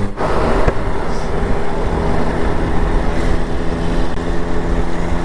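TVS 50 moped's small single-cylinder two-stroke engine running steadily at cruising speed, a constant engine note over low road and wind rumble.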